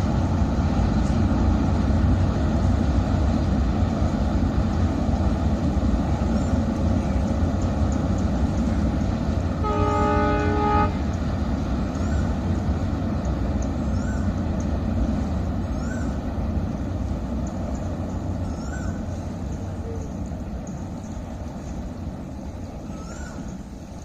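Marusagar Express train rolling over a rail bridge, a steady low rumble that slowly fades away toward the end. About ten seconds in, the train sounds its horn once for about a second. In the second half, short chirps repeat every couple of seconds.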